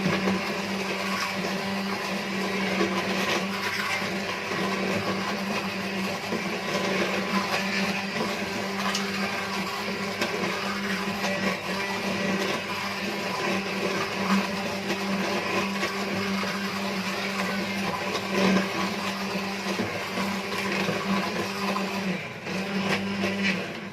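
Hand blender running steadily as it purées chunks of cooked vegetables in soup; the motor stops just before the end.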